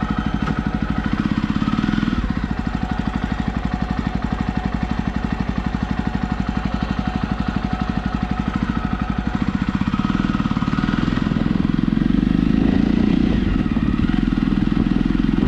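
Motorcycle engine running steadily with an even firing pulse, growing slightly louder about twelve seconds in.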